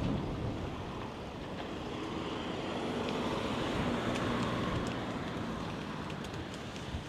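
Wind buffeting the microphone of a camera on a moving bicycle, a steady rushing rumble that swells in the middle, with a few faint sharp ticks near the end.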